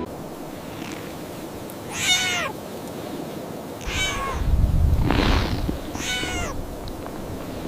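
A kitten meows three times, about two seconds apart, each call falling in pitch at the end. A low rumble and a short rush of noise come in from about four seconds in.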